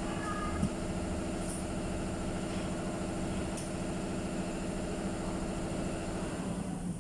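An engine idling steadily, winding down and stopping near the end.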